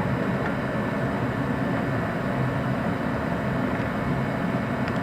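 A steady low background drone, even throughout, with no distinct knocks or clicks.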